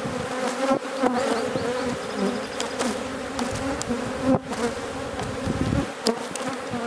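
Honey bees buzzing in a dense swarm around an open hive during an inspection, a steady wavering hum with a few sharp clicks of hive parts or frames.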